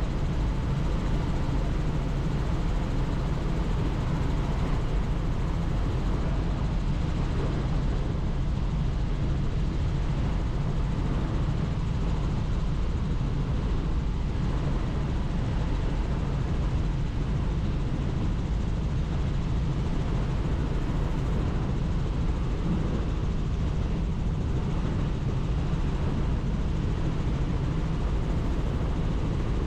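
Helicopter in flight heard from on board: steady, even rotor and engine noise, heaviest in the low end.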